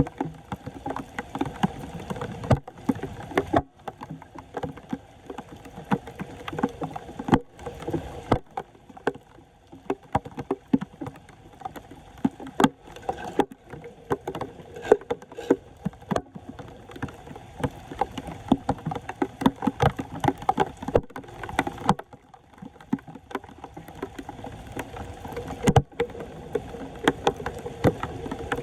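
Floodwater splashing and sloshing, with many irregular knocks and scrapes, as debris is cleared from a clogged street storm drain.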